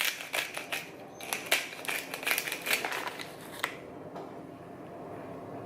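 A quick, irregular run of sharp clicks and rattles of small hard objects being handled, stopping after about three and a half seconds.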